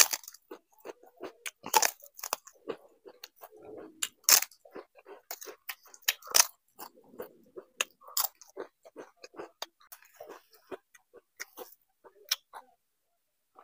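A person biting into and chewing crisp fried papad (papadum), with many sharp crunching crackles and louder crunches about every two seconds. The crunching thins out after about ten seconds and nearly stops near the end.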